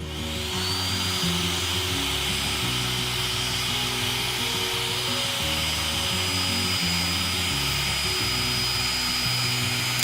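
A small electric power tool's motor spins up with a rising whine, then runs steadily with a high hiss and whine for about ten seconds before cutting off, over background guitar music.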